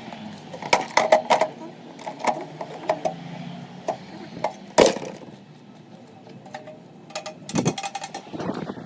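Metal tools and engine parts clinking and knocking as a scooter engine is taken apart by hand: a cluster of light clinks, one loud knock about halfway through, and more clinks near the end.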